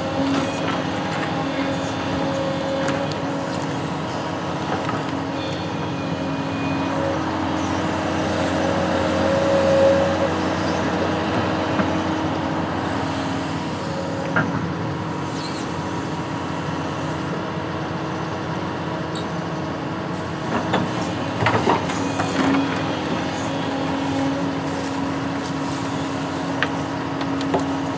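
Construction machine's engine running steadily during a trial run, with a few short knocks and clanks about two thirds of the way through.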